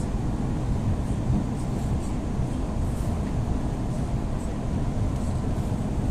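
Steady low rumble of an EP2D electric train running along the line, with wheels rolling on the rails and faint light rattles.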